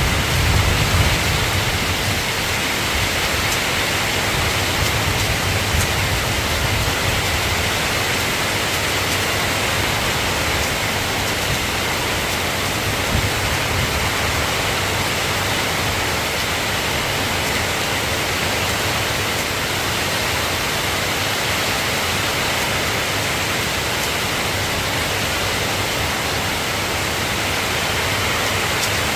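Steady rain, an even hiss, with a low rumble of thunder dying away over the first couple of seconds.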